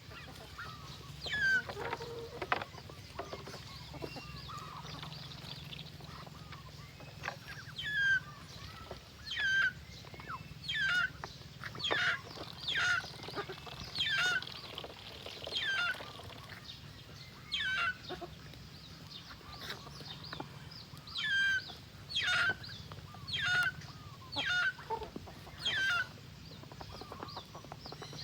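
Poultry calling: a run of short, high calls, each falling in pitch, coming roughly once a second.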